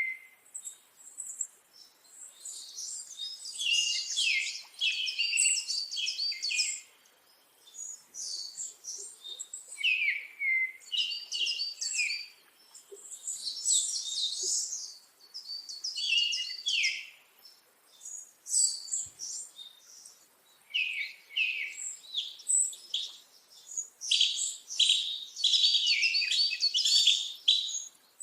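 Birds chirping and singing in repeated bursts of quick, high notes, each burst lasting a few seconds with short gaps between.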